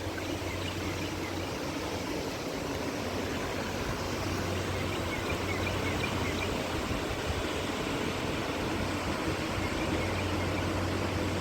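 Small waterfall rushing steadily, with faint high chirps about halfway through.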